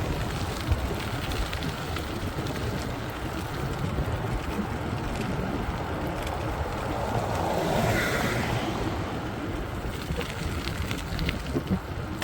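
Wind rushing over a phone's microphone on a bicycle going downhill at speed, with road rumble and small rattles. The noise swells and fades about eight seconds in.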